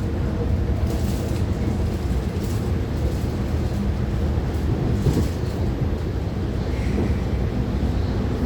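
MTR IKK-Train electric multiple unit running at speed: a steady rumble of wheels on rails and running gear, with a few faint clicks.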